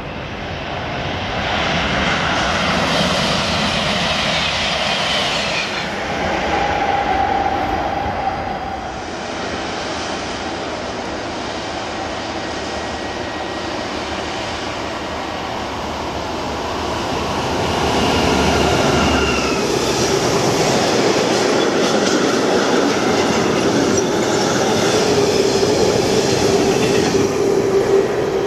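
Freight train passing: a DB Cargo Class 6400 diesel-electric locomotive hauling tank wagons, its engine running and the wagon wheels rolling over the rails, with brief wheel squeal. It grows louder in the second half.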